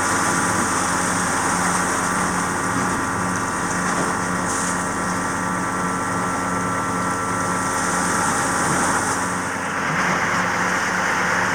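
Steady drone of the sailboat's onboard machinery running, an even engine-like hum with a constant pitch.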